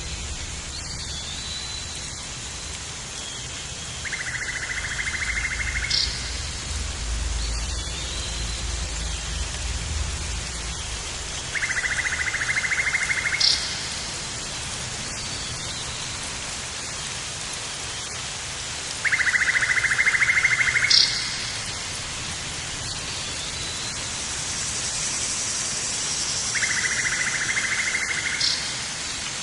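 Steady rain, with a low rumble that fades out about ten seconds in. Four times, about every seven or eight seconds, a rapid buzzy trill lasting about two seconds rises above the rain, each ending in a short high chirp.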